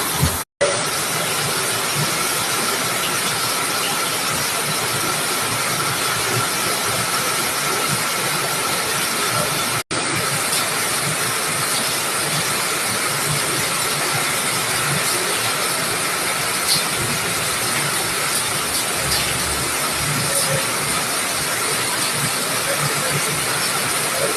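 Steady rushing noise of water from a flooded street, an even hiss with a faint steady tone in it. It breaks off for an instant twice, about half a second in and about ten seconds in.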